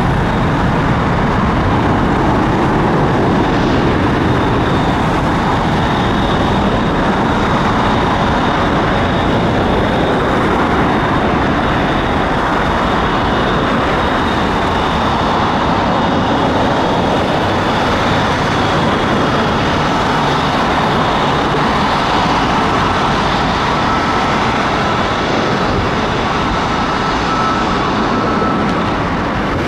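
Jet airliner engines running, a loud steady rush with a faint high whine over it.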